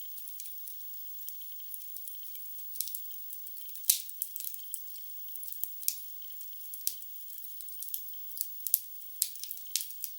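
Wood fire burning in a fireplace, crackling with irregular sharp pops and snaps over a faint hiss; the loudest pop comes about four seconds in. The sound is thin, with no low end.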